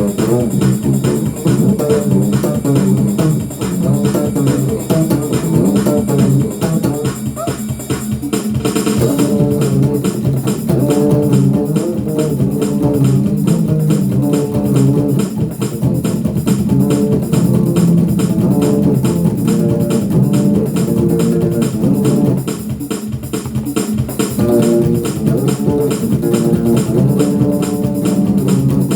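Bass guitar playing an up-tempo gospel shout-music groove, with drums and tambourine keeping a fast, steady beat.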